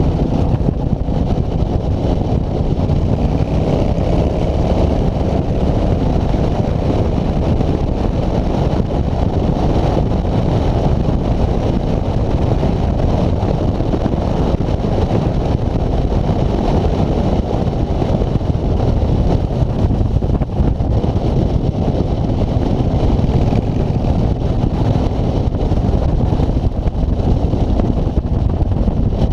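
Steady, loud wind rush and rumble on the microphone of a road bike being ridden, with no pauses.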